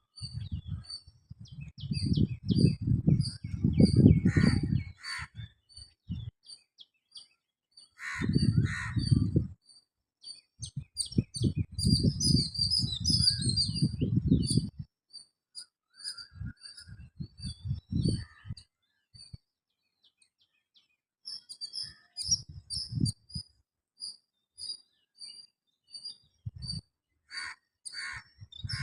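Small birds chirping: short high chirps repeated about twice a second, steady throughout. Louder bursts of low rumble and crackle come and go over them several times.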